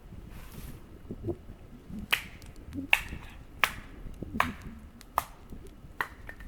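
Wood snapping: a series of six sharp cracks, roughly one every three-quarters of a second, over a soft rustle.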